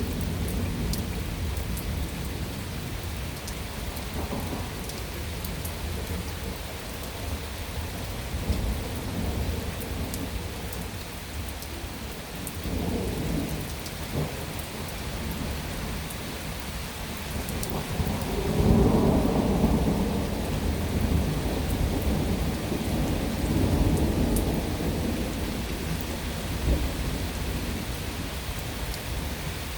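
Thunderstorm: steady heavy rain with rolling thunder rumbling on and off. The loudest peal comes about two-thirds of the way through.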